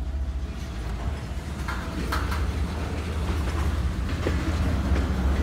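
Freight train of tank cars rolling slowly through a grade crossing: a steady low rumble, with a few sharp metallic clanks about two seconds in and again near the end as the cars bump together at their couplers.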